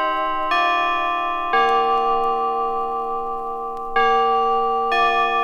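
Clock chime playing a slow melody of struck bell notes about a second apart, each ringing on into the next. One note is held for over two seconds before a new phrase begins.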